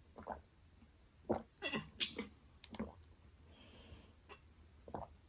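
Close-up mouth sounds of eating: scattered wet smacks and clicks of chewing, bunched together in the middle, with a brief breathy hiss.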